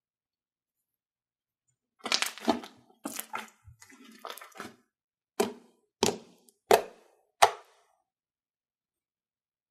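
Slime being squished and popped: a few seconds of crackling squelches, then four sharp pops about two-thirds of a second apart.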